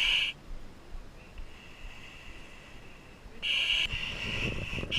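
A high-pitched electronic tone sounding in loud bursts of about a second: one at the start, one a little over three seconds in, and another at the very end, with a fainter steady tone between them.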